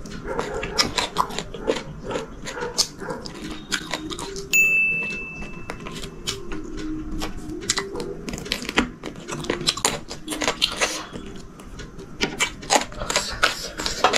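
Close-up chewing and mouth sounds of a person eating rice and curry by hand: a dense run of wet clicks and smacks. About four and a half seconds in, a steady high beep-like tone sounds for about a second and a half.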